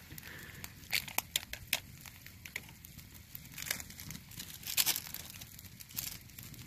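Irregular sharp crackles and crinkling from trash, likely ramen packaging, burning in a wood campfire.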